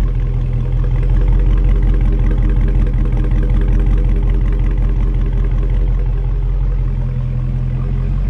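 Dodge Charger V8 with a mid-muffler-delete exhaust idling: a steady, deep, loud burble.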